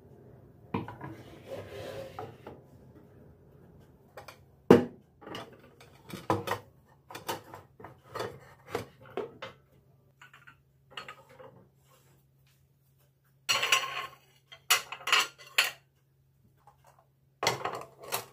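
Dishes and cutlery clattering as they are handled and set down: a short scrape, then a run of separate clinks and knocks with a few quicker clusters.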